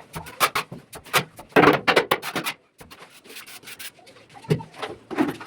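Repeated rough scraping strokes of a plastering tool working mortar on a ceiling, several a second, with a short break about halfway.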